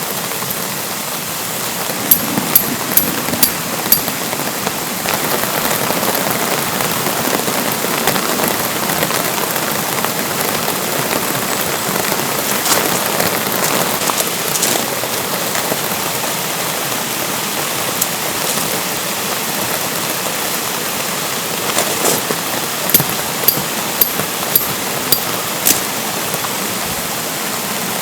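Steady rain falling, with runs of sharp drip taps about two seconds in and again near the end.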